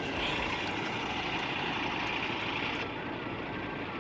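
Steady running noise of idling truck engines in a truck yard, with a hiss that stops about three seconds in.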